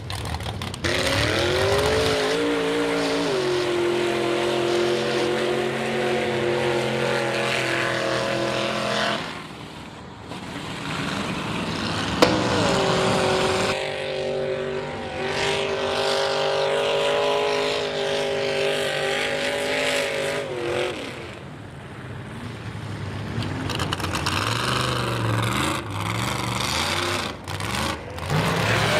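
Mega mud truck engine with open headers run hard at high revs: it climbs and holds high for several seconds, drops off, climbs and holds again, then revs unevenly near the end. A single sharp crack comes as the second pull begins.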